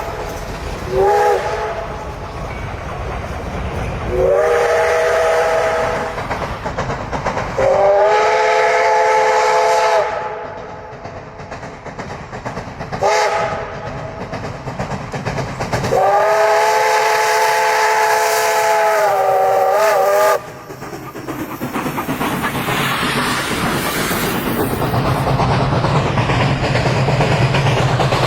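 Steam locomotive's chime whistle blowing five blasts, short, long, long, short, long, with steam hissing between them. After the last blast, a train's rumble and clickety-clack of wheels on rail joints builds up and keeps growing louder.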